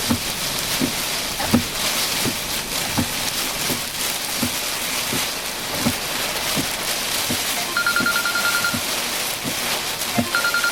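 Heavy wind-driven rain and storm wind buffeting a car, a steady dense rush, with a soft low knock about every three-quarters of a second. A fast-pulsed electronic phone tone sounds twice, for about a second each, late on.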